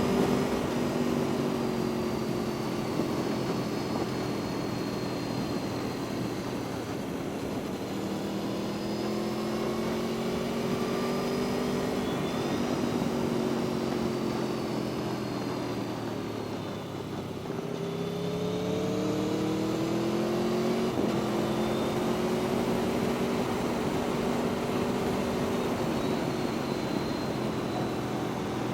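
Aprilia Tuono V4 1100 RR's V4 engine riding along, its pitch rising and falling as the revs change: a climb to about twelve seconds in, a drop around seventeen seconds, then a climb again, over a steady rush of wind.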